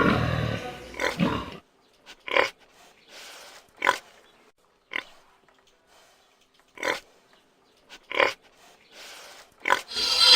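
Pig grunting: a quick run of grunts in the first second and a half, then six short single grunts a second or two apart.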